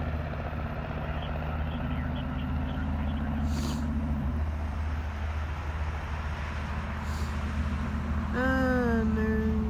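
Steady low engine drone. Near the end, a brief pitched sound slides downward over it.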